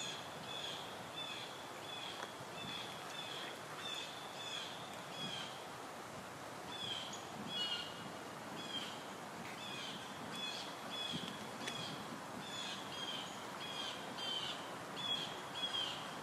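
A bird calling over and over, short high chirps at about one and a half a second, over a soft steady background hiss.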